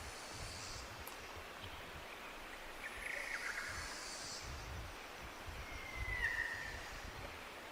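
Forest ambience: a steady hiss with low rumbling, a short bird chirp about three seconds in, and a longer bird whistle about six seconds in, the loudest sound here.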